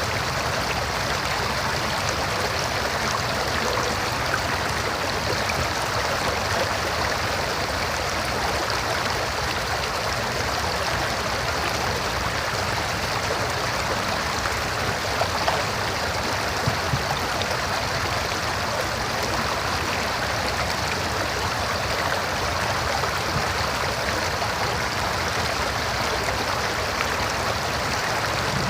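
River water running over rocks, a steady rushing flow with a faint gurgle.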